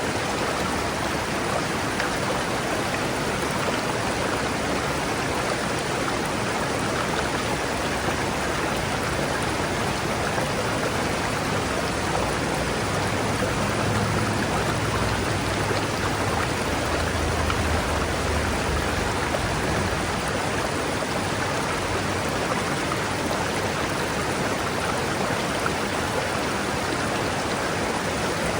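River flowing: a steady, even rush of water. A faint low rumble swells under it in the middle and fades out again.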